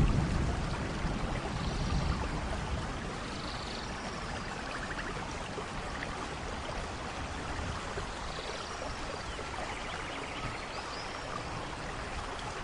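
Steady tropical rain with birds chirping and trilling at intervals. A low rumble of thunder dies away over the first couple of seconds.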